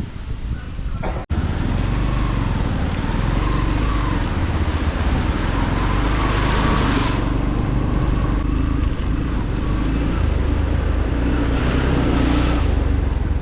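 A motorcycle on the move: its engine running steadily under heavy wind rush on the microphone. The sound starts abruptly about a second in.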